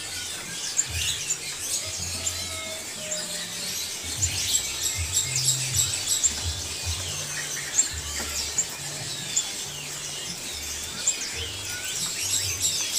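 Many small caged songbirds chirping and twittering at once in a constant overlapping chorus of short high calls.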